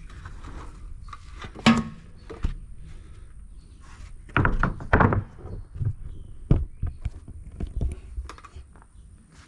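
Sawn pine boards being handled, with a few separate wooden thunks and knocks as the boards are shifted and set down, the busiest cluster about halfway through.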